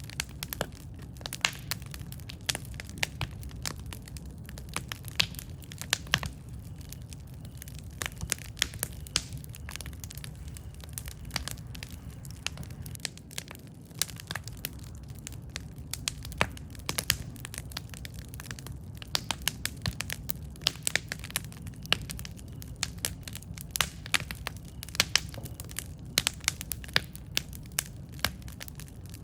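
Campfire burning with frequent irregular sharp crackles and pops over a steady low rumble of flame.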